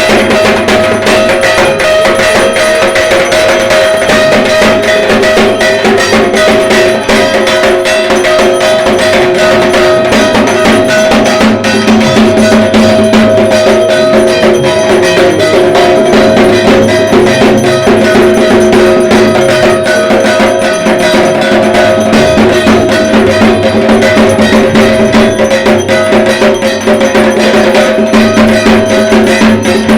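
Dhak, the Bengali barrel drum of Durga Puja, beaten in a fast, unbroken rhythm, with a steady metallic ringing over the dense strokes.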